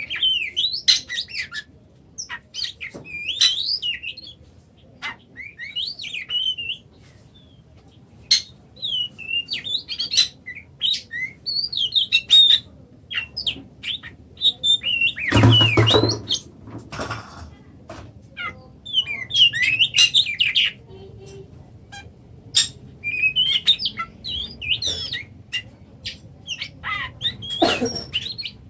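Oriental magpie-robin (kacer) singing in short, varied whistled and chirping phrases with quick pitch glides, in bursts with brief pauses. About halfway through there is a brief loud thump or rustle, and a smaller one near the end.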